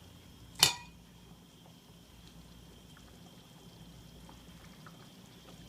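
A single sharp clink about half a second in, a kitchen utensil striking the metal cooking pot with a brief ring, over a faint steady hiss from the pot.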